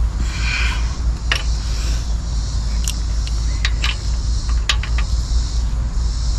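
A few short, sharp metallic clinks, some in quick pairs, over a steady low rumble and hiss.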